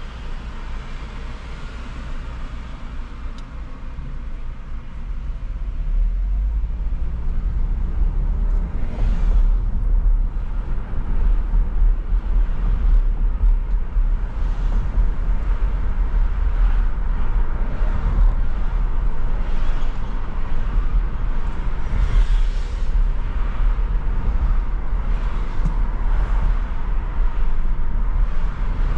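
A car driving on city streets: a steady low road rumble with tyre noise, growing louder about six seconds in, and hiss that swells and fades several times as traffic goes by.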